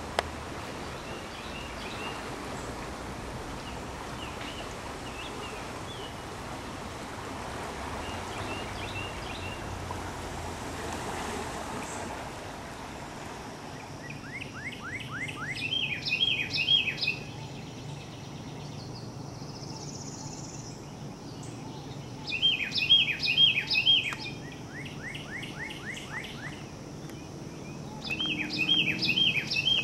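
A songbird sings loud phrases of quick repeated chirps three times in the second half, over a steady rushing background noise. A few fainter chirps come earlier.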